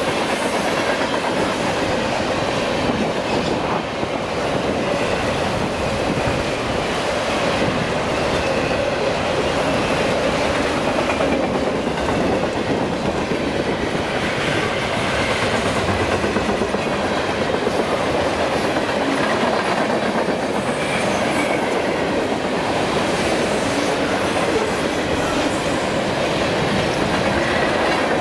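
A train's cars rolling past on the rails: a steady, loud rumble of wheels on track with some clickety-clack.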